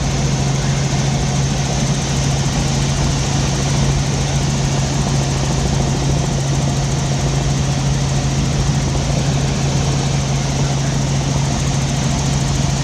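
Helicopter engine and rotor running steadily in flight, heard on board: a constant low drone over an even hiss, with no change in pitch or level.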